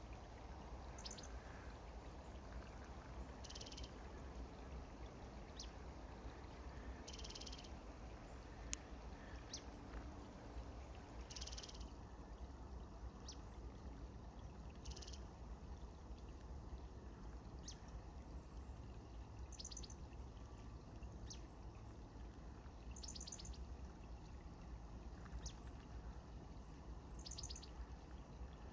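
Small songbirds giving short, high chirps and brief trills every few seconds, faint over a steady low background noise.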